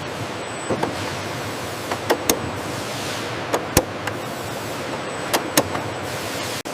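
Factory machinery running with a steady hiss, broken by pairs of sharp clacks about every second and a half, like parts being pressed or snapped into place on a production line.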